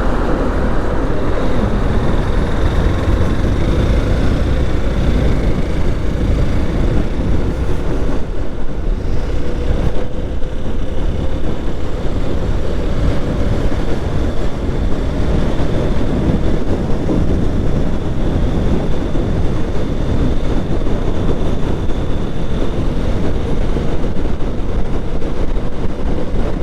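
Motorcycle riding at road speed: steady wind rush and road noise over the helmet camera's microphone, with the engine running underneath.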